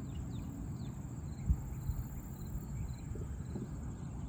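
Insects chirping in a steady, even pulse over a low rumble of wind and outdoor noise, with one soft thump about a second and a half in.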